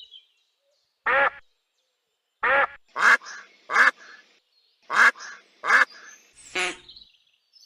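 Duck quacking: a series of about eight short quacks, some single and some in quick pairs.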